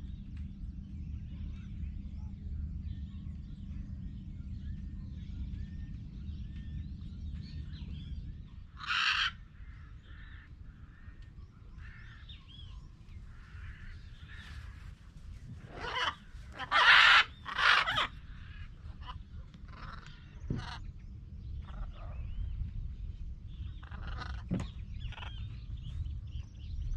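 Animal calls: many short high chirps and squeaks throughout, with louder harsh squawks about nine seconds in and a cluster of them around sixteen to eighteen seconds, over a low steady rumble.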